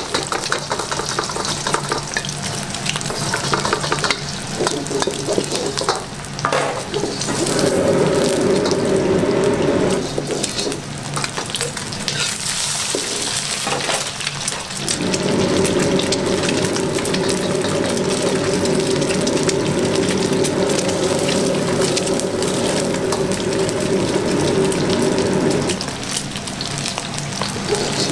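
Eggs frying in a pool of hot oil in a wok, the oil sizzling and crackling steadily. A steady low hum joins in twice, for a couple of seconds about seven seconds in and again for about ten seconds from the middle on.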